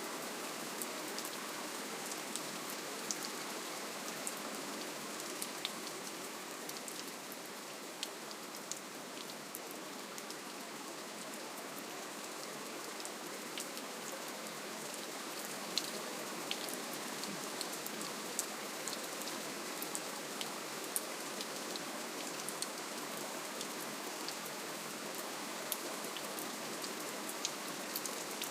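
Steady, soft rainfall: an even hiss of rain with many small, sharp drop ticks scattered through it.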